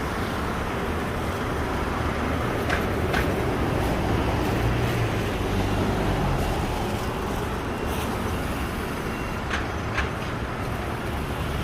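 Street traffic: a steady low rumble of passing vehicles, with a few short clicks.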